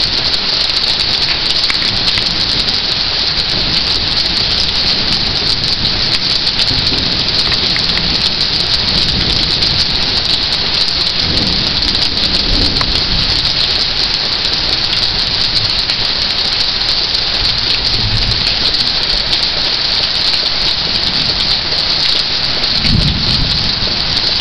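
Heavy rain pouring steadily, a dense, unbroken hiss.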